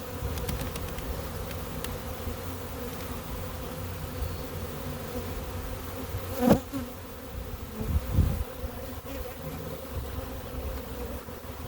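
A swarm of honey bees buzzing steadily as they crowd into a hive box. A single sharp thump stands out about six and a half seconds in.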